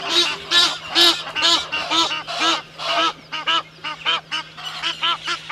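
A bird calling over and over in short, harsh notes, about two a second at first and then quickening to about three a second while getting a little softer.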